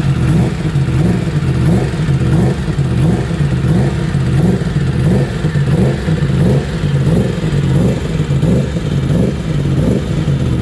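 Yamaha MT-10's crossplane inline-four engine revving by itself in its pit-lane warm-up mode: blipped up to about 4,000 RPM and dropped back over and over, about three revs every two seconds.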